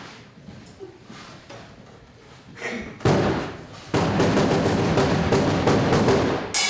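Live stage percussion: a few faint knocks, then about three seconds in a loud, dense drum roll starts suddenly, breaks off briefly, resumes and ends with a sharp strike.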